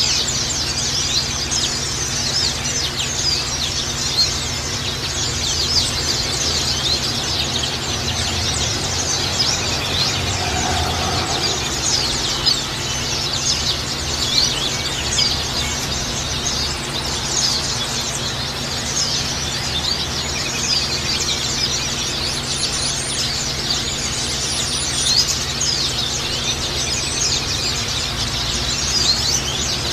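Many white-eyes (pleci) chirping and twittering rapidly and without pause, a dense high-pitched chorus over a steady low hum.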